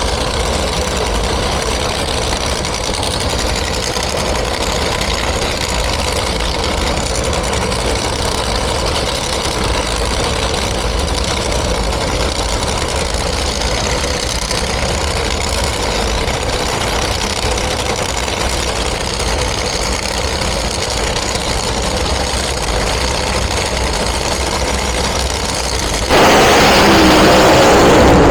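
A drag racing car's engine idles steadily. About two seconds before the end it gives way abruptly to a louder rush of noise.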